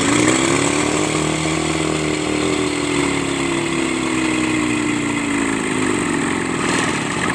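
Kubota D650 three-cylinder diesel engine of a B6001 tractor running, its pitch rising quickly right at the start, holding steady, then sagging slowly near the end.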